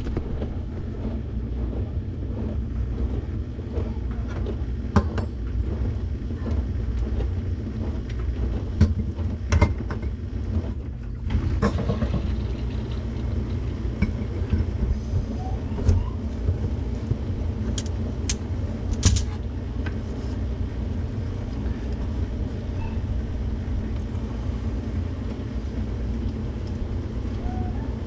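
Steady low rumble, with a few scattered clicks and knocks.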